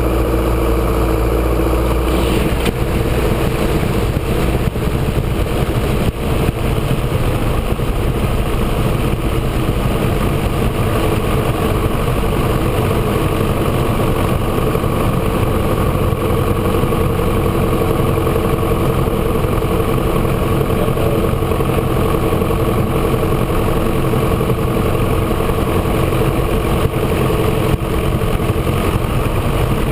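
Grumman AA-5A Cheetah's four-cylinder Lycoming piston engine and propeller running steadily at low power, its pitch and level unchanging.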